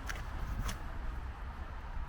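Two footsteps in snow in the first second, over a steady low rumble.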